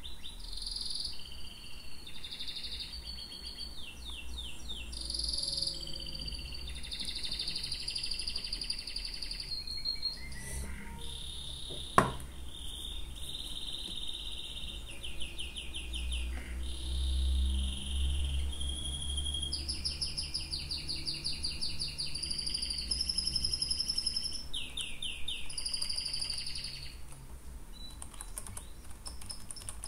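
Birdsong: a run of chirping and trilling phrases in quick succession, over a steady low hum, with one sharp click about twelve seconds in.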